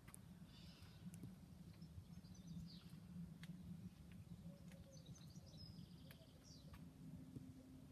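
Near-silent garden ambience: small birds chirp faintly a few times, short high notes scattered through, over a low steady hum.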